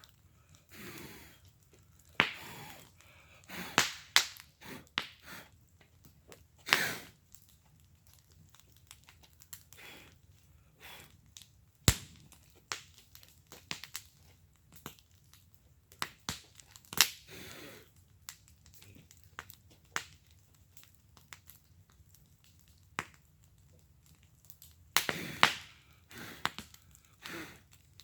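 Wood fire burning in a fire pit, crackling and popping at irregular intervals, with a few sharper, louder pops among the small crackles.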